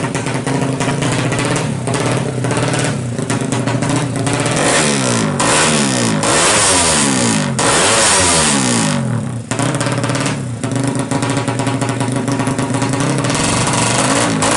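Suzuki Satria FU motorcycle engine, bored out to 200cc, idling unevenly. In the middle it is revved up and down repeatedly for about five seconds, then settles back to idle while it is being tuned.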